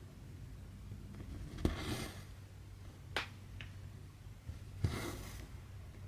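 Cross-stitch needle pushed through stretched fabric with a sharp tick, then embroidery thread drawn through it with a short swish, twice; a couple of lighter ticks come between.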